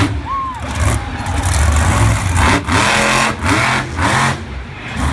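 Monster truck engine revving hard, its rumble rising and falling with several brief drops in throttle.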